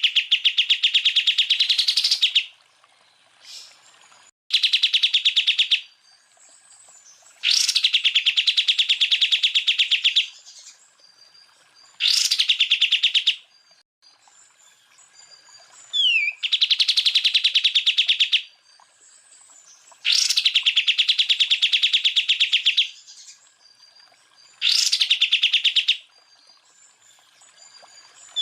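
Cucak ijo (green leafbird) singing its 'tembakan' phrases: about seven bursts of fast, rattling repeated notes, each one to three seconds long, separated by short pauses, some starting with a quick upward-sliding note.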